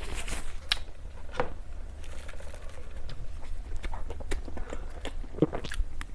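Close-miked eating of dessert: chewing and biting, with irregular soft clicks and wet mouth sounds over a steady low hum.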